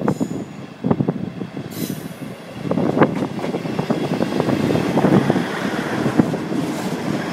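East Midlands Trains class 158 diesel multiple unit running through the station, its wheels knocking over rail joints and pointwork. It gets louder about three seconds in.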